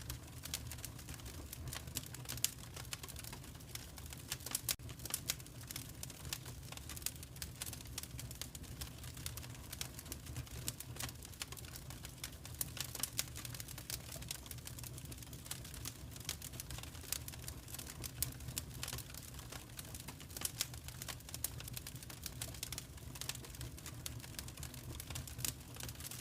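Wood fire in a fireplace crackling: dense, irregular snaps and pops over a low steady rumble of the flames.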